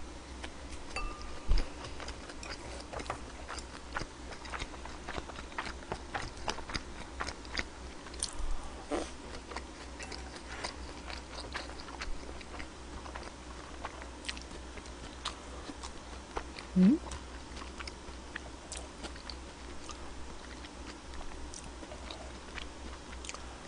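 Close-miked chewing of a mouthful of pork-belly and bean-sprout rice, with wet mouth sounds and small clicks throughout. One short rising hum comes about two-thirds of the way through.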